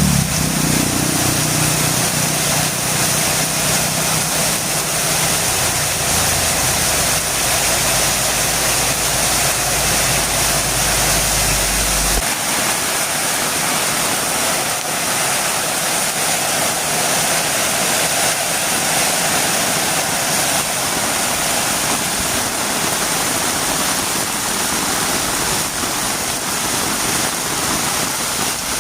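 Heavy rain falling in a steady, dense hiss. Under it, a low engine hum runs for roughly the first twelve seconds and then stops abruptly.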